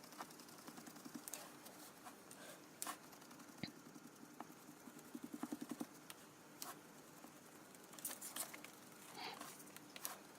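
Faint soft taps and clicks of a sponge dabbing acrylic paint onto a card surface, with a quick run of rapid dabs about five seconds in.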